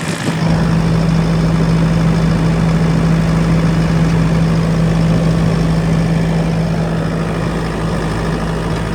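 Kubota SVL65-2 compact track loader's diesel engine idling steadily, heard up close with the engine compartment open.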